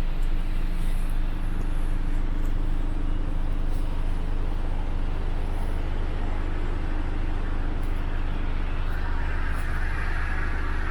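Mercedes Actros 2551's 510 bhp V8 diesel engine idling steadily. A higher rushing sound builds in over the last couple of seconds.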